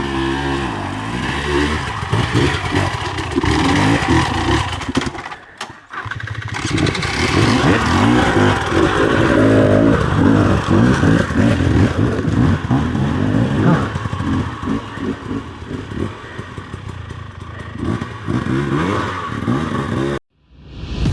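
Dirt bike engine revving up and down while riding over rough trail, with some clatter. The sound dips briefly about five seconds in and cuts off abruptly just before the end.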